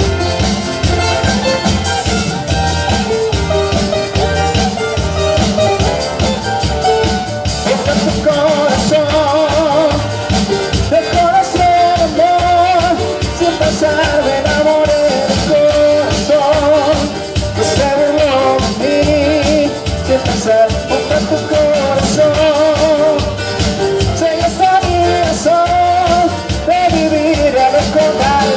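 Latin band playing a song live with a steady beat, and a sung melody coming in about eight seconds in.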